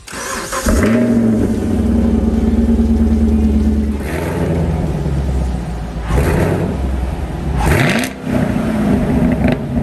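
Chevrolet Camaro SS 6.2-litre V8 starting up with a rev flare about a second in, then settling to a steady idle. Near eight seconds it flares up again and settles back to idle.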